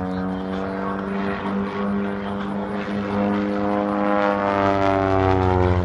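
Propeller engine of an aerobatic airplane droning in flight. Its pitch dips a little, then rises and grows louder over the last couple of seconds as the plane comes in.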